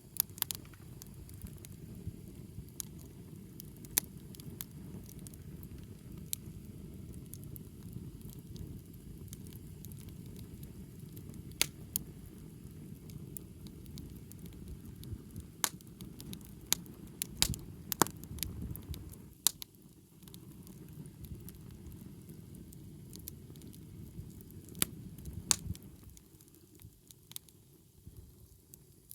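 Wood campfire burning: a steady low rush of flames with frequent sharp crackles and pops from the burning wood. The rush eases briefly about two-thirds of the way through and again near the end.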